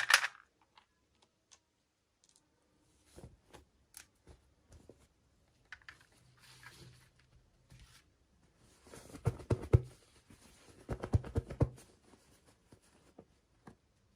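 Toy packaging being handled and opened: scattered light clicks and taps, with two spells of rustling about nine and eleven seconds in.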